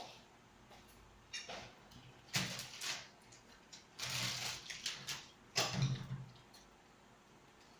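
Eating noises close to the microphone: a few short, separate bursts of chewing and slurping.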